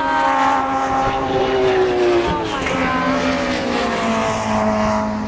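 Several racing car engines running at once, their pitches drifting slowly down and up.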